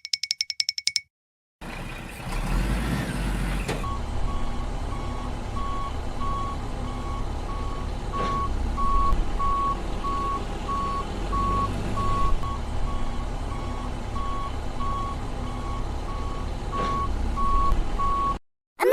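A vehicle engine running with a low rumble while a reversing alarm beeps steadily, about twice a second, beginning a few seconds in. It opens with a brief run of rapid electronic tones that cut off before the engine starts.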